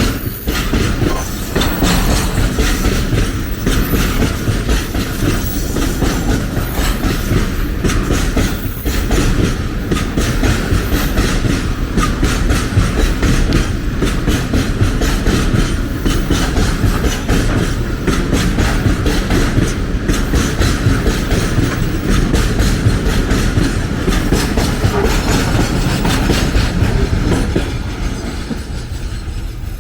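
A train passing close by, its wagon wheels clicking rapidly and steadily over the rail joints above a low rumble. The sound begins to fade near the end as the train moves away.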